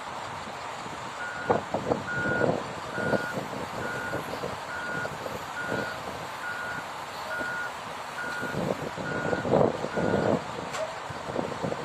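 Reversing alarm on a heavy truck or construction machine: a single-tone beep repeating about once a second, eleven times, stopping about ten seconds in. Engine noise and clattering go on underneath.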